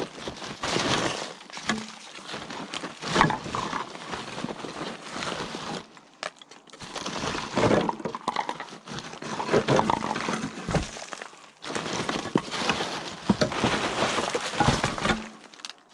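Hands rummaging through rubbish and scrap, with rustling and clattering in irregular bursts and two short lulls.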